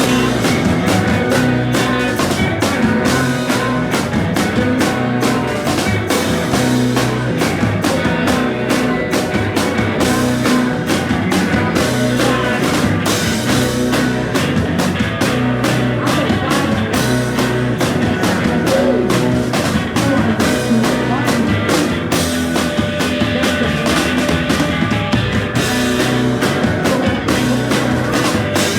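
Live psychedelic rock band playing an instrumental passage, with electric guitar and a steady drum kit beat.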